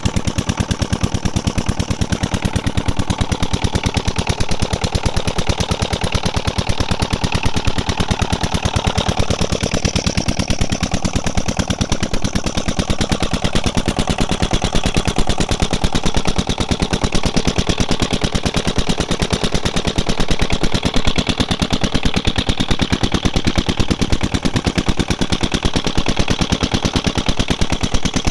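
Diesel engine driving a tubewell water pump, running steadily with a rapid, even beat of sharp exhaust pops.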